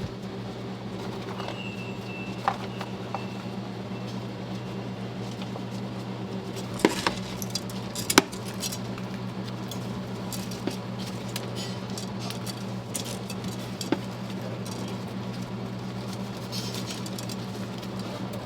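Steady low machine hum in a kitchen, with scattered clinks and knocks of dishes and utensils; the two sharpest knocks come about seven and eight seconds in.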